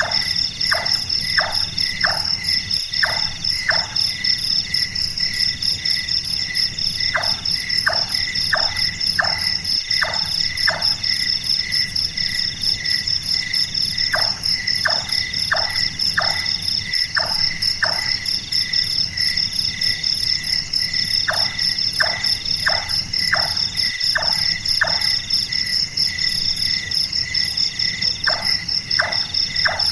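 Large-tailed nightjar calling its repeated 'chonk' notes, like a hammer tapping wood, about two a second in runs of five to seven with pauses of a few seconds between runs. A steady chorus of crickets and other night insects shrills underneath.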